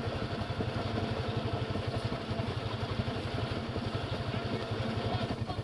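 Polaris RZR side-by-side's engine idling, a steady low rhythmic exhaust pulse.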